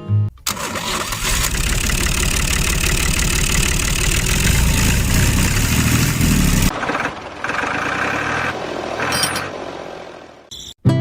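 An engine starting and running. Its low end drops out suddenly about two-thirds of the way through, and the sound then fades away near the end.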